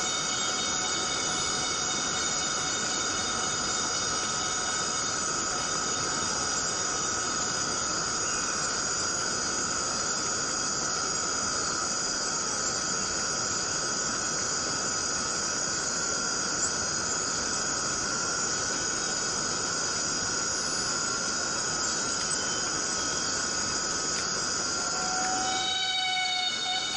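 Cicadas in a forest chorus, a dense steady buzzing made of several held high drones over a constant hiss. Near the end the low hiss drops away and a lower drone joins in.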